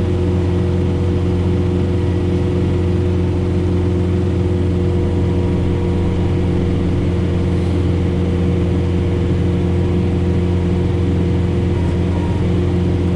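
John Deere 4066R compact tractor's diesel engine running at a steady, constant pitch, driving a Frontier SB1174 PTO snowblower under load through heavy wet snow, heard from inside the tractor cab.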